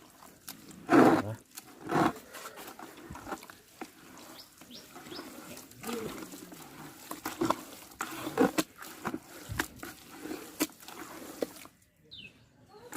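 Pig feed being mixed by hand with a liquid dewormer: repeated scraping, rustling and clicks of the feed being stirred, with pig grunts among them, loudest about one and two seconds in.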